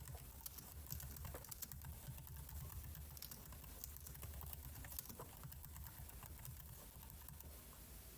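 Computer keyboard keys tapped irregularly, a scattering of light clicks at no steady rhythm, over a faint low hum.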